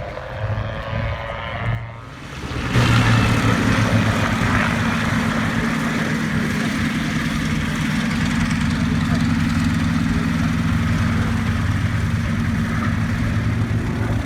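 Propeller aircraft's piston engine running steadily and loudly, coming in sharply about three seconds in after a quieter passage with a gliding pitch.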